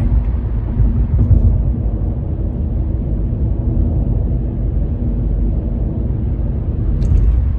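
A steady low rumble of background noise, heaviest in the bass, with no clear rhythm or tone.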